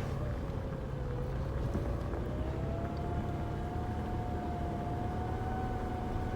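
Four-wheel-drive vehicle running at low speed: a low engine rumble with a steady whine over it that rises slightly in pitch about two seconds in.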